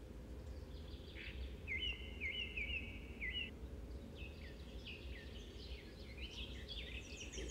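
Birds chirping faintly in the background: a run of quick repeated chirps about a second in, then more chirping from about four seconds in, over a low steady hum.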